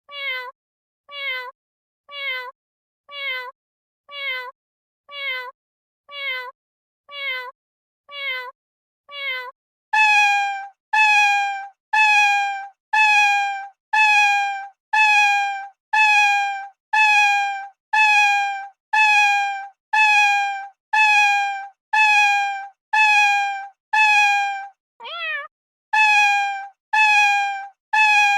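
The same short cat meow repeated again and again at an even pace, about three every two seconds, with silence between each. About ten seconds in it switches to a different, louder meow repeated the same way, broken once near the end by a single wavering call.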